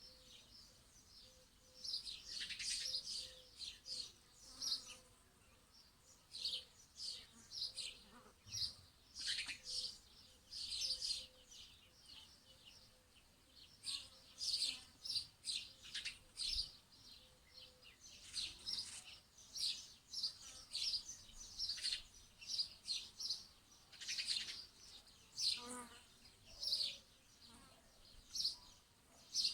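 Songbirds chirping: many short, high chirps in quick runs and trills, one after another throughout, with a faint steady hum under the first half.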